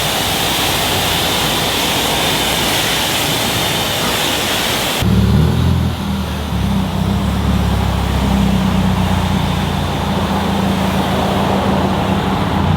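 Steady hiss of a car-wash pressure wand spraying water for about five seconds, cutting off suddenly. Then a car engine running with a low steady hum.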